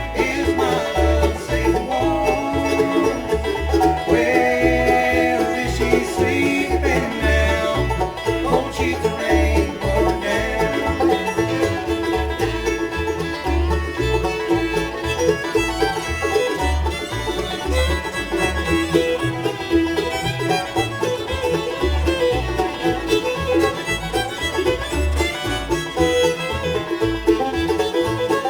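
Bluegrass band playing an instrumental passage with no singing: banjo, fiddle, guitar, mandolin and bass together, the bass notes falling on a steady beat.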